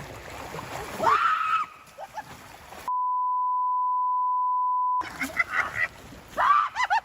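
Loud honking calls of waterfowl, cut about three seconds in by a steady beep tone, a censor bleep, lasting about two seconds, then more honks in a quick run near the end.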